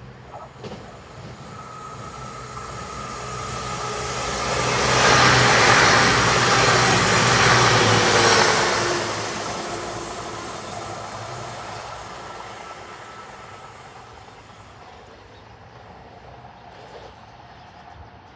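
CrossCountry Voyager diesel multiple unit passing through at speed without stopping. Its engine and wheel noise build over a few seconds, are loudest about five to nine seconds in as it rushes past, then fade as it goes away, with the tone dropping in pitch after it passes.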